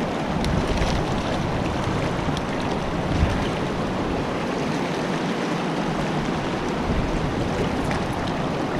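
Creek water rushing steadily over rocks, a fast current running past close by.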